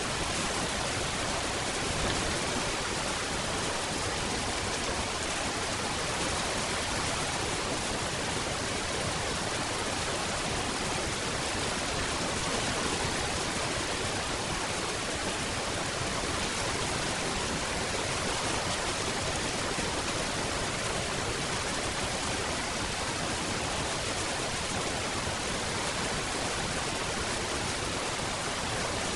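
Steady rain falling, an even hiss with no distinct drops, thunder or changes in strength.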